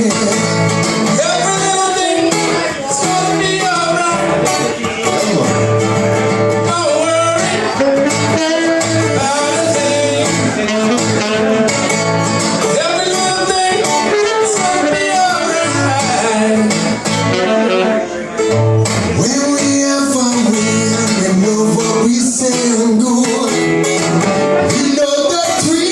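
Live band playing a reggae song, with strummed guitars and singing.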